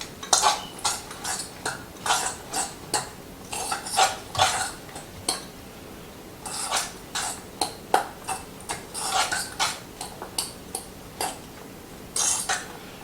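A utensil stirring and tossing a couscous salad in a bowl, with irregular scrapes and clinks against the bowl and a short pause about halfway through.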